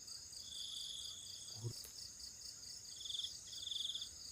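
Night-time chorus of crickets and other insects: steady high trilling, with a louder pulsed trill that comes in bursts of about a second. About a second and a half in there is one brief low knock.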